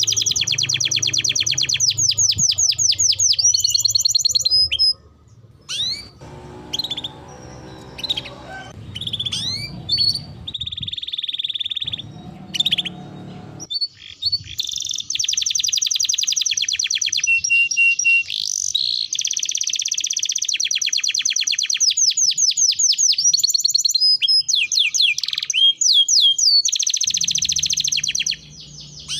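Domestic canary singing vigorously: long, rapid trills and rolls of repeated high notes, broken by short pauses, with a few sweeping whistled notes between the trills.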